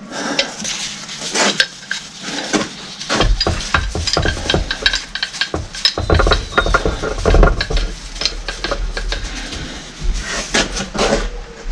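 Irregular metallic clinks, knocks and scraping as the reassembled Kubota backhoe hydraulic pump is worked by hand with a PTO shaft to make it turn; it is binding tight. The owner judges that something is wrong inside, later traced to a squashed seal.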